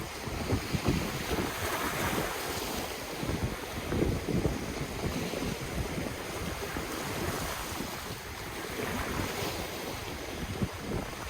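Ocean waves washing onto the shore, the surf swelling twice, with wind buffeting the microphone in low, uneven thumps.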